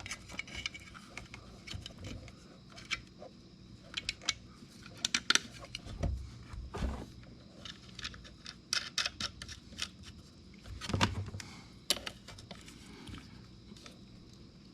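Irregular clicks, rattles and knocks of metal hardware and cable being handled while the negative welding lead is put back on a Forney 235 stick welder, with a few sharper metallic clacks and a couple of duller thumps.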